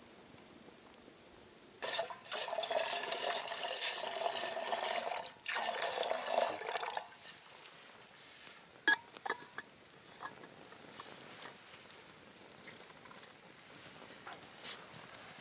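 Water poured into a container in two long pours, about two and five seconds long, with a short break between them. Light clicks and knocks follow.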